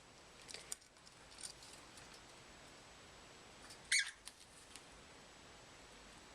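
A cockatiel gives one short, high chirp about four seconds in, with a few faint ticks and rustles in the first second or so.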